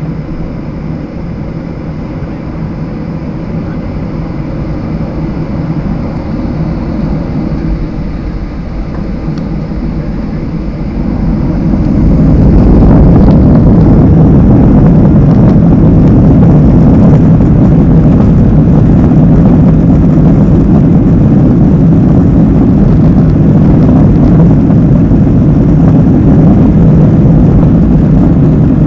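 Airliner jet engines spooling up, the noise building gradually and then rising sharply to a loud, steady level about twelve seconds in as takeoff thrust is set for the takeoff roll.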